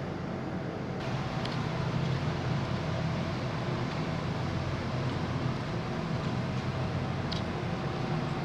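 Steady low drone of the ferry Hamayu under way, with a continuous rush of wind and water noise over it.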